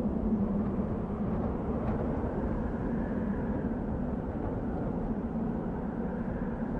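Desert wind blowing steadily, a low, even rushing noise.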